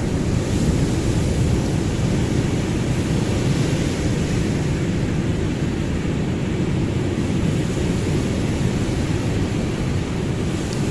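Ocean surf as a steady, deep rumble of continuous wash, with no single wave breaking out of it.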